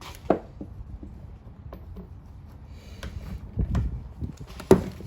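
Metal engine parts and hand tools knocking and clanking as they are handled during a small-block V8 teardown. There is one sharp knock shortly after the start, light clicks and rattling in the middle, and the loudest clank near the end.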